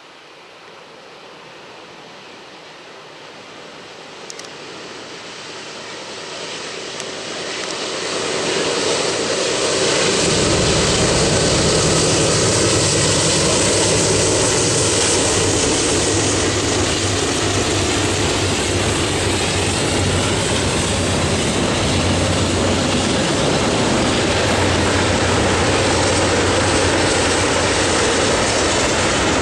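Three GE C40-9W diesel locomotives leading a double-stack intermodal train approach, their engines growing steadily louder over the first ten seconds, then pass loud and close, followed by the steady sound of the container cars rolling by.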